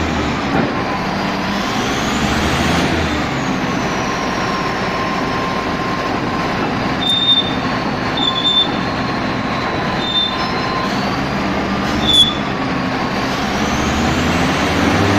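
Heavy diesel machinery running steadily under load, with a whine that rises and falls and a few short high squeaks partway through.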